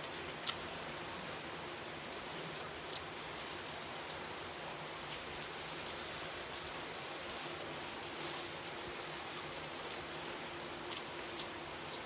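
Steady hiss with a few faint, scattered clicks and crunches from chewing fried chicken and handling food with a plastic glove.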